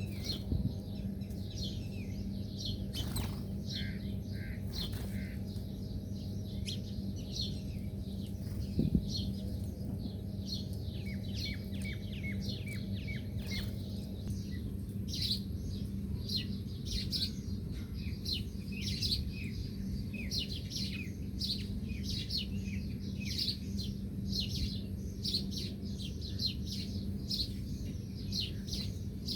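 Small birds chirping: many short, high, rapid chirps, thicker and busier in the second half, over a steady low hum. A brief thump about nine seconds in.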